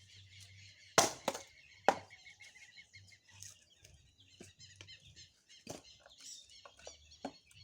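Small birds chirping steadily, broken by three sharp bangs or knocks in quick, uneven succession about a second in, followed by scattered fainter knocks.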